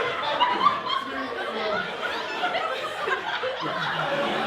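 People laughing and chattering, their words indistinct.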